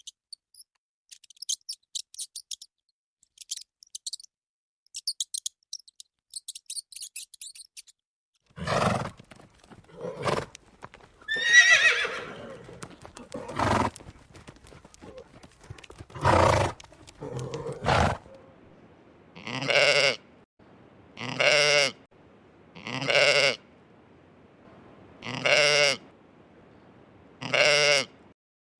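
A farm animal calling over and over: about a dozen short, wavering calls. The calls come irregularly at first, then evenly about every two seconds. Before them there is a stretch of faint, high clicking.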